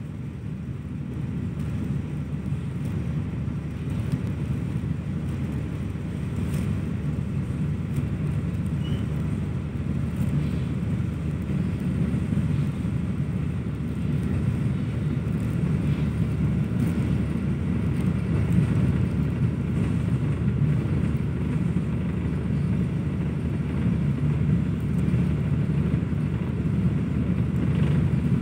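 Passenger train running steadily, a constant low rumble of the wheels on the rails and the running gear, heard from aboard the carriage, with a few faint clicks.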